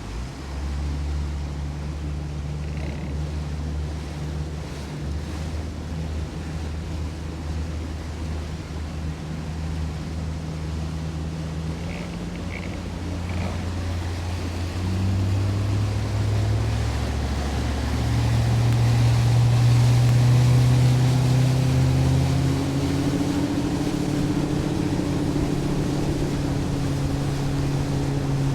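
Boat motor running slowly, then throttled up about halfway through, its pitch and loudness rising in two steps, with wind and water noise growing as the boat speeds up.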